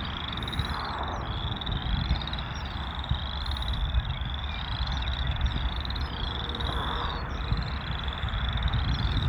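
A chorus of frogs calling in short, rising trills that repeat and overlap, over a steady low rumble.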